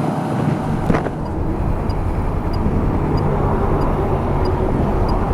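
Honda CB500X parallel-twin engine running at road speed, with wind rushing over the helmet microphone; the low rumble swells about half a second in. One sharp knock about a second in, and faint regular ticks about every two-thirds of a second.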